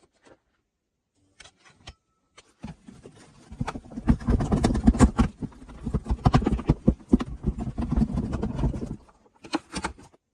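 Hands working wet mud and mud bricks at close range: a few scattered clicks, then about five seconds of dense knocking, scraping and rubbing, with a few more clicks near the end.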